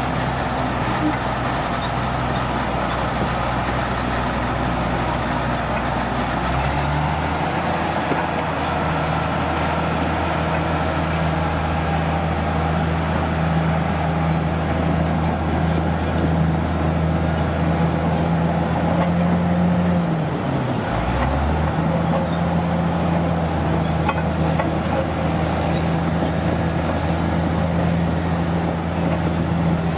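Heavy truck or construction-machine engine running steadily. Its speed steps up about seven seconds in, dips briefly about two-thirds of the way through, then recovers.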